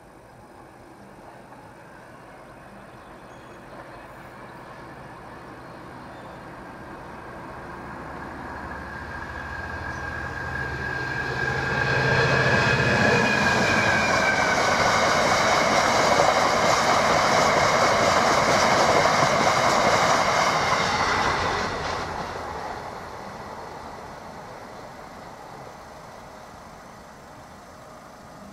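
Freight train passing over a level crossing. The train's low hum and rail noise build up over about ten seconds, with a high whine that drops in pitch as the front goes by. Then comes a loud, steady rumble and clatter of wagons for about ten seconds, which dies away quickly.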